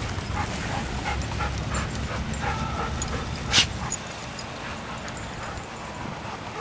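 Dogs playing together, giving a few short yips and whimpers, with one sharp yelp about three and a half seconds in.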